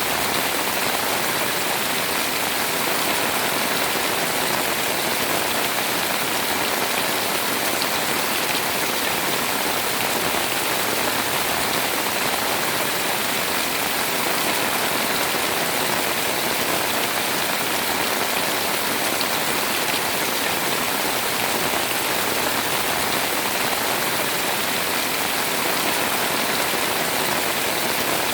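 Heavy rain pouring steadily onto a house, a dense, even hiss of drops on its surfaces with no letup.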